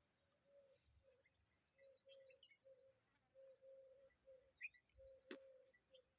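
Faint birdsong: many short, high chirps and tweets, over a string of short low notes repeated every half second or so. A single sharp click comes about five seconds in.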